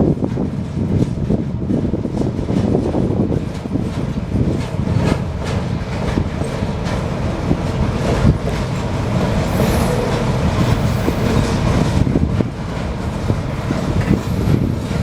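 Container train's wagons rolling past with a steady rumble, wheels clicking over rail joints, and a faint high wheel squeal about ten seconds in.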